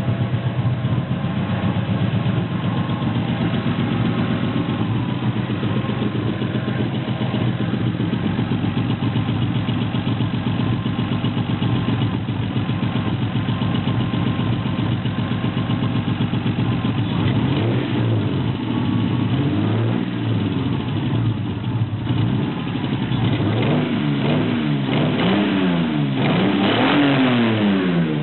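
Lexus SC300's 2JZ inline-six running through a Blitz Nür exhaust, idling steadily, then blipped in a run of short revs that rise and fall over the last third. The engine has a misfire.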